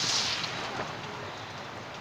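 Heavy rain falling, a dense steady hiss that drops noticeably in loudness within the first second and then carries on softer.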